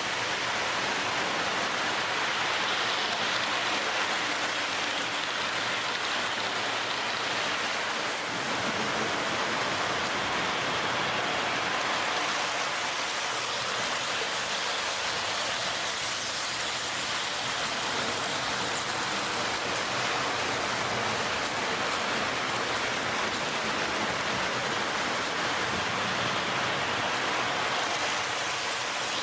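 Lionel O gauge D&H U36C diesel locomotive with its Pullmor motor running around the track: a steady whirring rush of motor and wheels on the rails, with faint light clicks.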